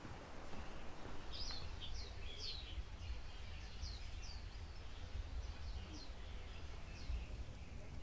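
Small bird calling a string of short high chirps, starting about a second in and stopping near the end, over a low steady rumble.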